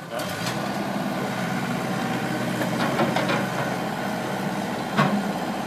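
Excavator's diesel engine running steadily, picking up in strength just after the start, with a few short knocks and a louder clank about five seconds in.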